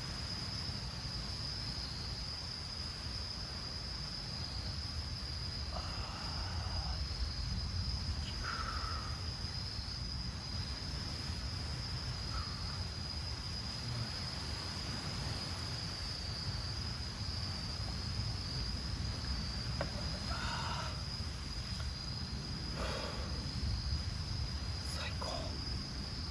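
Crickets or other night insects chirring in one steady, high-pitched trill, over a low, even rumble. A few faint, brief sounds come and go.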